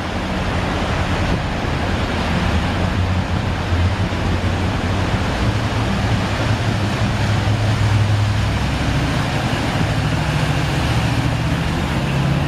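A motor vehicle's engine running as it drives through deep flood water, over a steady rush of water noise. The engine hum strengthens midway and rises slightly in pitch near the end.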